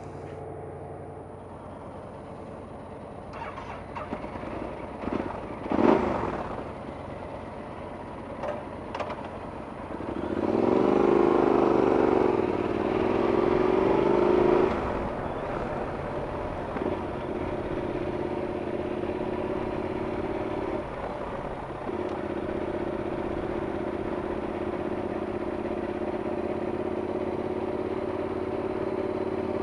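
Yamaha Super Ténéré XT1200Z parallel-twin engine ticking over with a few knocks, then pulling away about a third of the way in, its pitch rising under acceleration for several seconds before it settles into a steady cruise, with one brief dip in the middle of the cruise like a gear change.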